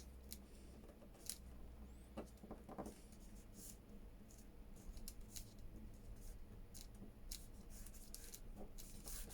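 Faint, scattered light clicks and rustles of hands handling paper and craft pieces.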